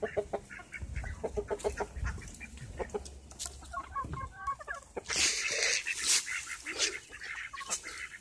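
Ducks quacking and chickens clucking, many short calls overlapping in quick succession as the flock crowds into the coop, with a brief rustling rush about five seconds in.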